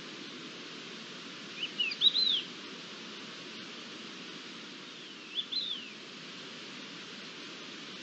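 A bird calling twice, each a short phrase of quick slurred high notes, the first about two seconds in and the second about three seconds later, over a steady hiss.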